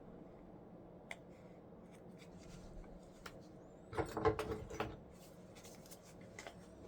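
Small parts and tools being handled on a workbench: a few light clicks, then a short burst of clattering about four seconds in.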